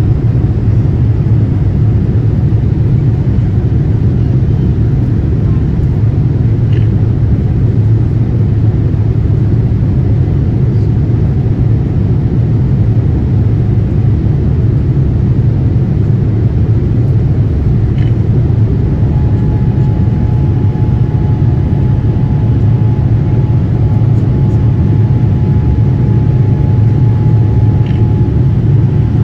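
Steady low rumble of an airliner in flight, heard from inside the cabin: engine and airflow noise that holds even throughout. A faint thin steady tone joins in about two-thirds of the way through.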